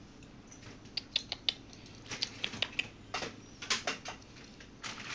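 Light, irregular crinkling and clicking of a plastic bag as a kitten climbs about in it, in scattered clusters of quick crackles.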